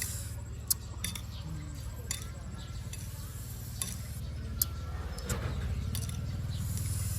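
Someone biting and chewing java fruit: a string of sharp, separate crunching clicks over a steady low hum.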